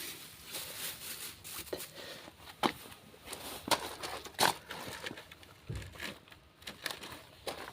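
Scattered light knocks and clicks, with some rustling, as engine parts are handled and set down during a workshop repair.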